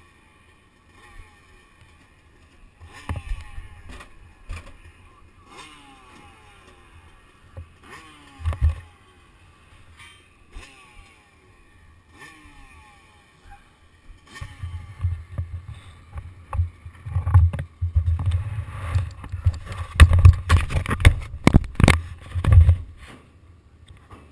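Motocross bike engine heard faintly, its pitch rising and falling as the throttle opens and closes. About halfway through it gives way to loud low rumbling and sharp knocks on the camera microphone.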